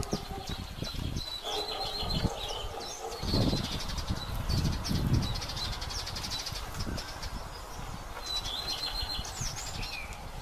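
Small birds chirping, with a quick high trill twice. Under them come low thumps and rustling, loudest a few seconds in.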